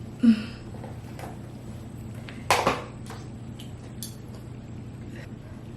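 Handling clatter: a few sharp knocks of hard objects against each other or a counter, the loudest about a quarter second in and another about two and a half seconds in, over a steady low hum.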